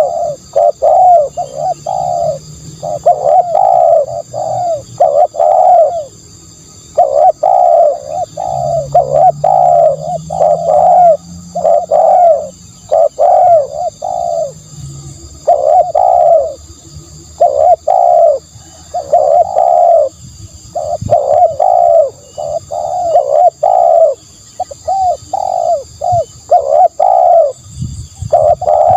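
Spotted dove cooing over and over in runs of short, quick coos with brief pauses between the runs: a spotted dove lure call.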